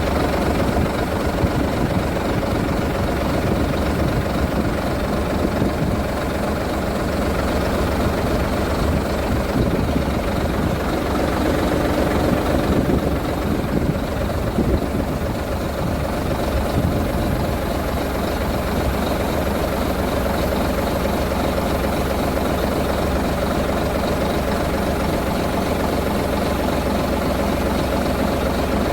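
Scania 93H truck's six-cylinder diesel engine idling steadily.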